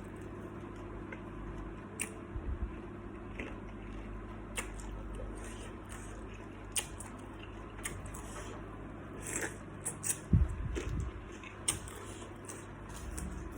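Scattered small clicks, taps and soft squishy handling noises at a dining table, with a dull low thump and a cluster of clicks about ten seconds in.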